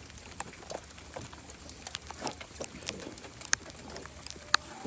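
Irregular light clicks and ticks, scattered and uneven, a few of them with a short ringing ping.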